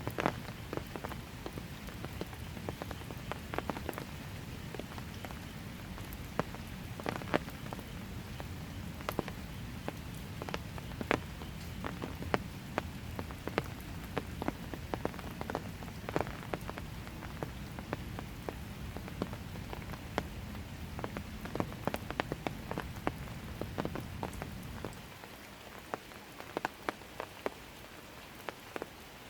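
Steady rain falling, with many distinct close drops ticking sharply over the even hiss. A low rumble beneath the rain drops away about 25 seconds in, leaving the rain a little quieter.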